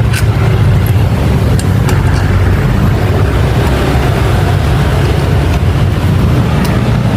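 Honda automatic scooter's engine running steadily at idle, a low even hum with a few light clicks over it.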